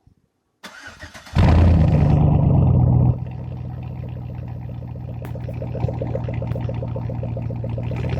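5.3-litre V8 exhaust through a straight drag pipe that replaces its Flowmaster muffler. The starter cranks briefly and the engine catches a little over a second in. It runs at a loud high idle for about two seconds, then drops to a steady, deep idle.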